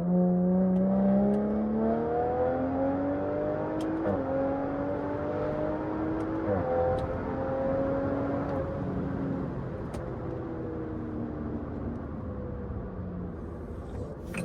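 Straight-piped, catless BMW 540i's turbocharged 3.0-litre inline-six (B58) accelerating hard in a full-throttle pull. The engine note climbs in pitch, drops sharply at upshifts about 4 and 6.5 seconds in, then levels off and slowly falls as the throttle eases.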